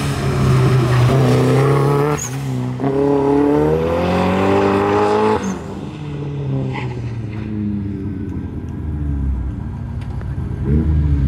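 Mazdaspeed 3's turbocharged 2.3-litre four-cylinder accelerating through an autocross course. The revs climb, break briefly about two seconds in, climb again, then drop off suddenly about five seconds in, and the engine grows fainter as the car moves away.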